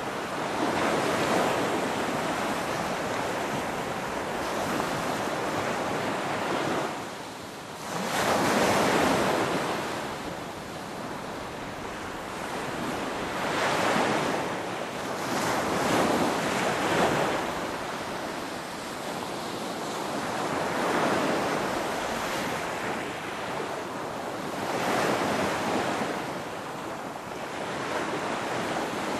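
Ocean waves breaking and washing on the shore, the surf swelling and falling away in surges every few seconds.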